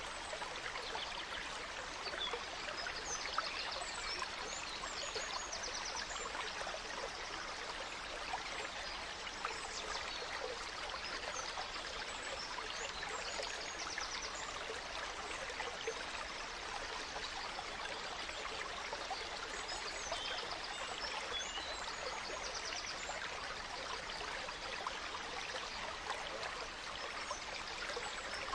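Gentle stream running steadily over stones, with small forest birds chirping and giving short, high trills throughout.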